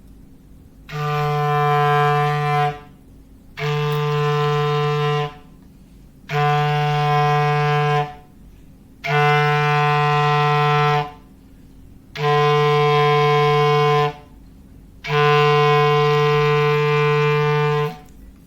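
Foghorn sound effect: six steady, low horn blasts of about two seconds each, about a second apart, the last one held longer. The pitch stays level through each blast.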